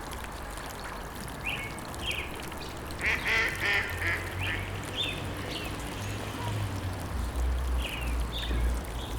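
Birds calling in short repeated calls, several in a quick cluster about three seconds in and others scattered through, over a steady noisy background.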